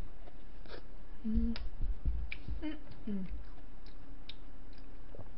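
Close-miked eating: small wet mouth clicks and chewing, with a couple of brief murmured 'mm' sounds and a few low bumps about a second and a half in.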